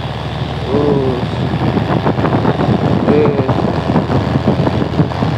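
Truck engine running under way, a steady, rough low rumble.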